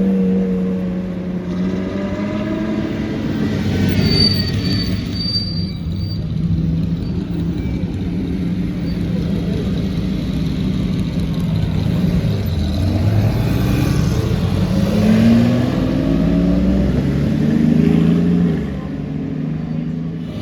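Car engines running and pulling away, with the pitch dropping a few seconds in and rising again in a run of revs about three quarters of the way through.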